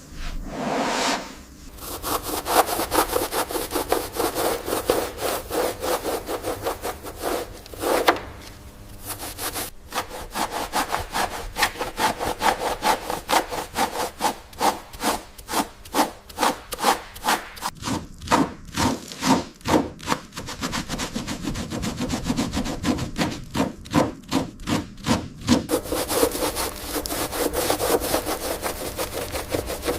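Hand sanding on a car body: rhythmic back-and-forth rubbing strokes, about two a second, with a short pause about a third of the way in.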